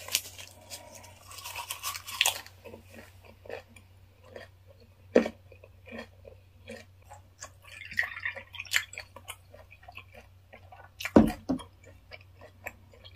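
Close-up wet chewing and small crunches of a mouthful of raw flounder sashimi wrapped in a perilla leaf with garlic and ssamjang, with many little mouth clicks. A sharp knock comes near the end.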